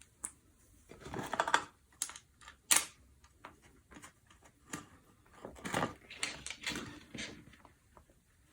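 Small metal parts clicking and rattling as screws and washers are fitted to a ceiling fan blade bracket by hand: irregular clicks in two short clusters, with one sharp click between them.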